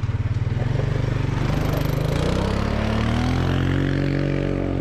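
Dirt bike engine running close by, pulsing at a low idle, then revving up over a couple of seconds and holding at higher revs.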